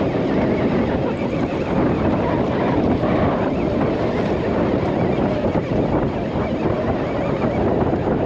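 Steady wind buffeting the microphone, with choppy water around a small fishing boat riding at anchor.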